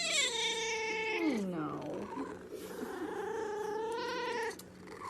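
A domestic cat meowing in two long, drawn-out yowls. The first sweeps down steeply in pitch about one to two seconds in; the second is held at a steadier pitch.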